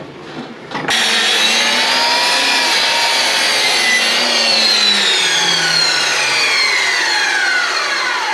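Electric power saw with a finishing blade cutting a fresh pine board: the motor starts abruptly about a second in and runs loudly and steadily, then its whine falls in pitch near the end as the blade spins down.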